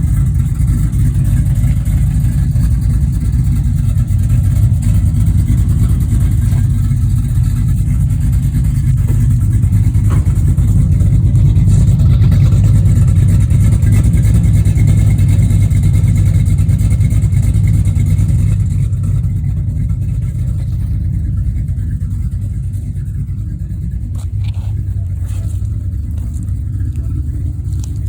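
A 1981 GMC Sierra 1500's small-block Chevy 350 V8, bored .060 over with a mild cam and long-tube headers, running with a steady low pulsing exhaust note. It runs a little louder through the middle, then drops back to a quieter idle about two-thirds of the way through.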